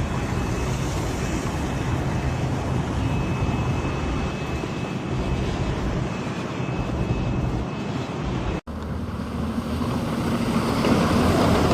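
Steady rumble of vehicle traffic with wind noise. It cuts off abruptly about two-thirds of the way through and resumes as a louder, rougher rumble.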